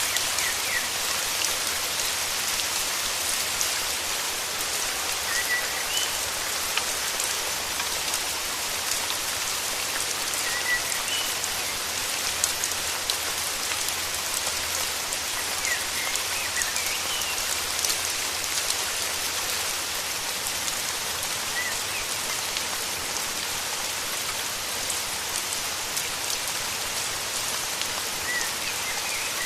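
Steady rain falling, with faint short bird chirps every few seconds.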